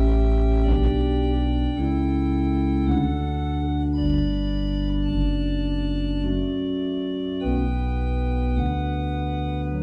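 Organ playing slow, sustained chords over a deep bass line, the harmony changing every second or so.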